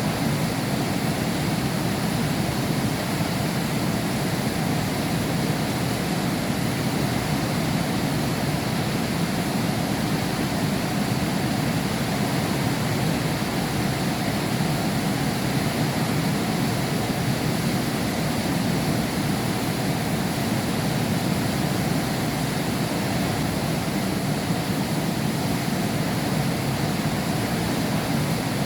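Heavy rain falling steadily, heard from behind a window pane.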